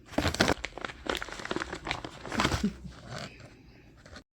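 Close crinkling and rustling: a dense run of sharp crackles for about three seconds, then quieter.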